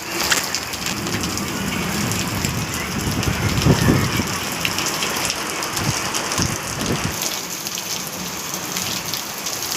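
Heavy rain falling, a steady hiss of many drops hitting surfaces, with a few low rumbles swelling in the middle, the strongest about four seconds in.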